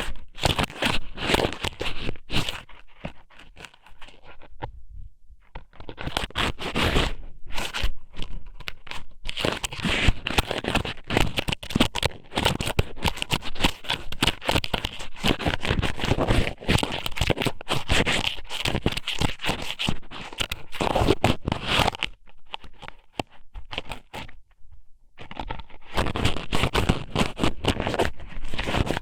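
Strips of ika-somen (squid noodles) pushed into and rubbed around the ear of a binaural microphone, giving close, dense crackling and scraping. It breaks off twice, briefly about five seconds in and for a few seconds about twenty-three seconds in.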